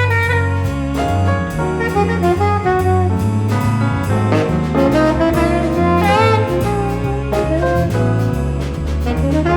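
Tenor saxophone playing a melodic line over a jazz waltz accompaniment of bass, piano and drums with cymbal strokes.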